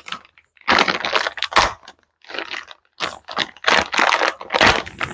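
Irregular rustling and clicking of small parts and their packaging being handled, in short bursts a few tenths of a second apart.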